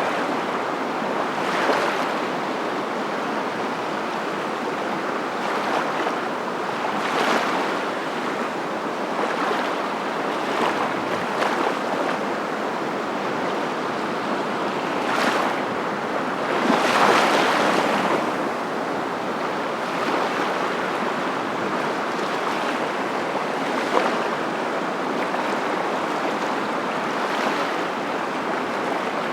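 Steady rushing of water, swelling louder every couple of seconds, most strongly about halfway through.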